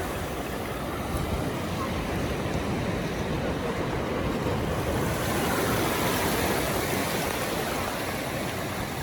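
Steady rush of ocean surf and wind on the microphone, swelling slightly about five to seven seconds in.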